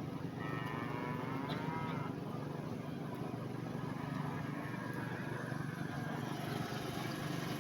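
A cow mooing once, a wavering call lasting about a second and a half shortly after the start, over a steady low hum.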